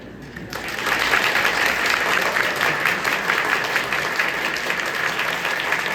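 Audience applauding, breaking out about half a second in and continuing steadily.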